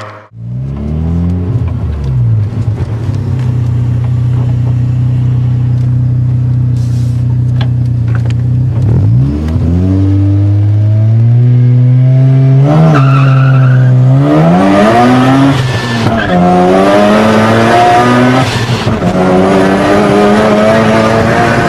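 Mazda RX-7 FD3S twin-turbo two-rotor 13B rotary engine with the exhaust deleted, running loud. It holds a steady note for several seconds, then revs up and down repeatedly in the second half.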